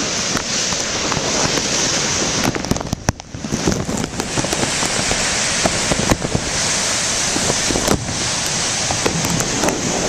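Heavy wind and sea spray buffeting a plastic bag over a camcorder, a dense rushing noise full of sharp crackles, with surf beneath; it drops briefly about three seconds in.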